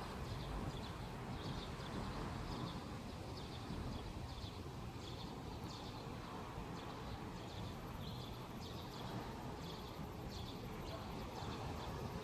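Outdoor ambience: a steady low rumble with small birds chirping in short, repeated calls.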